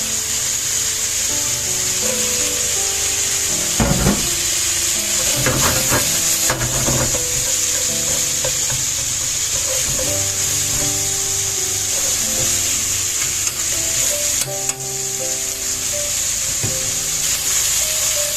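Food sizzling in a hot frying pan as it is stir-fried, with a few clatters of a utensil against the pan about four and six seconds in.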